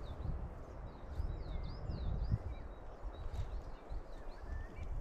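Small birds chirping, a busy run of short rising and falling chirps, over a low rumble.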